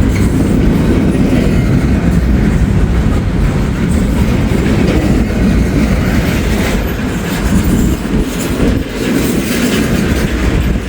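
Freight train cars rolling past close by: a loud, steady rumble of steel wheels on the rails.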